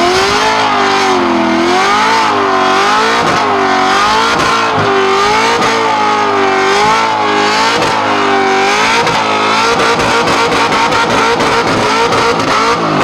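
Car engine held at high revs, its pitch swinging up and down about once a second and steadying near the end, the kind of sound a car makes while doing donuts.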